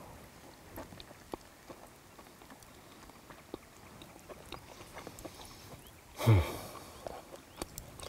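A man chewing food close to the microphone: soft, irregular mouth clicks and smacks. About six seconds in comes a brief low 'mm' that falls in pitch.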